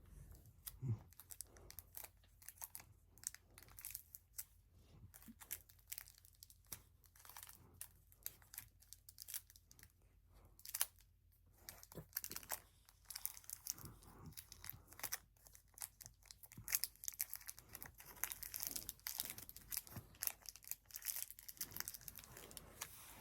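Snack wrapper being crinkled and torn open: many short crackles, busiest near the end.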